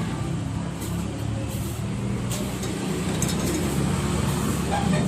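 Plastic shredder running with a steady low motor hum, with scattered sharp clicks and clinks of hard plastic pieces.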